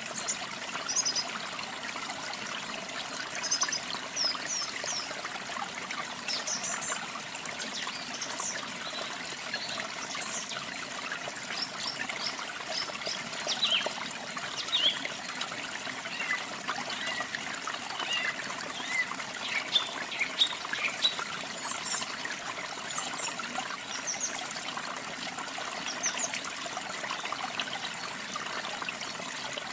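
Steady trickling running water, with small birds chirping in short high calls scattered throughout.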